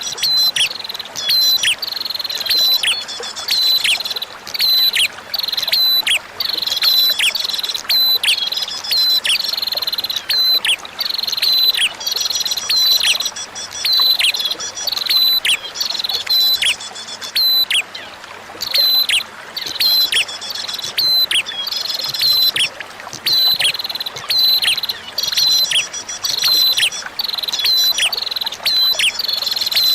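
Prinia (prenjak) song: sharp, high chirps repeated rapidly in phrases every couple of seconds, each chirp dropping quickly in pitch, over a faint steady hiss of trickling running water.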